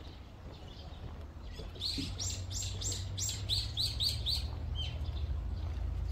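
A bird calling in a quick run of high, sharp chirps, about three a second, for roughly three seconds, starting near two seconds in. A steady low rumble runs underneath.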